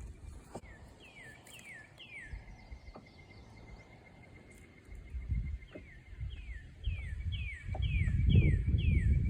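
A bird singing a series of downward-slurred whistled notes, a few at a time, over a steady high trill. Wind buffets the microphone, growing loud in the last couple of seconds.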